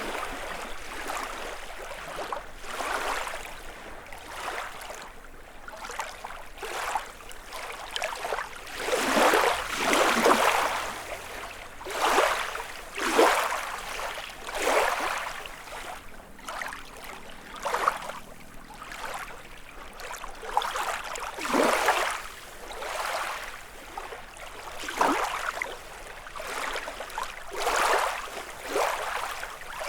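Small lake waves lapping and washing onto the shore, one after another every second or two, with a few louder splashes.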